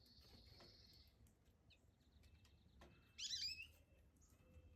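Near silence broken by a brief twittering call from a small songbird a little after three seconds in, preceded by a faint high steady tone in the first second.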